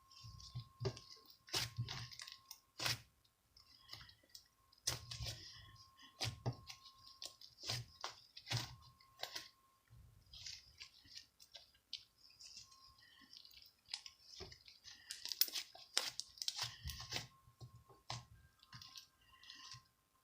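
Irregular clicking, crackling and rustling, with a faint steady whine underneath.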